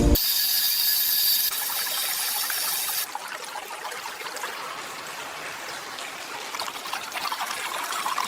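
Liquid fizzing and trickling. A bright hiss with a thin high whine for about the first second and a half gives way to a softer, crackling fizz after about three seconds.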